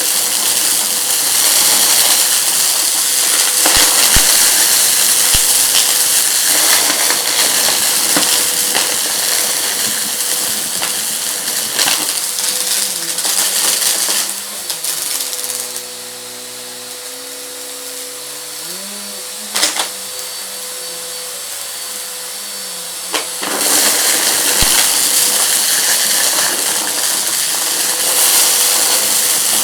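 Vacuum cleaner running over a rug, with a steady motor whine and scattered crackles and clicks as crunchy debris is sucked up. About midway it goes quieter for several seconds, with a lower hum wavering in pitch, then the full sound returns.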